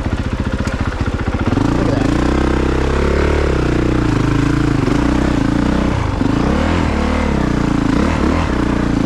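2022 Honda CRF450RX's single-cylinder four-stroke engine under way, chugging at low revs, then from about a second and a half in revving up and down again and again with the throttle.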